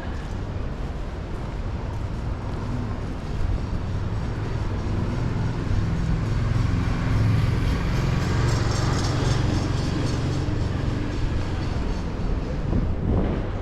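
A motor vehicle passing on a rain-wet city street: a low engine rumble that swells over several seconds and eases near the end, over a hiss of tyres and rain.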